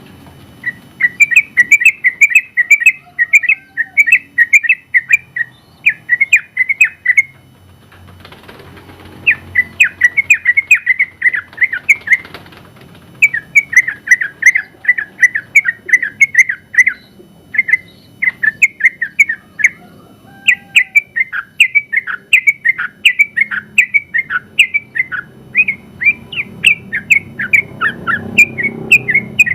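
Yellow-vented bulbul singing long, fast runs of sharp chirping notes in phrases of a few seconds with short pauses between them.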